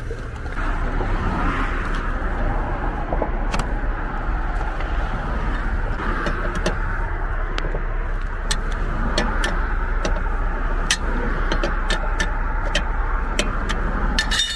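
Car moving off slowly, a steady rumble of engine and tyres starting about half a second in, with irregular sharp ticks and clicks scattered over it, several close together near the end.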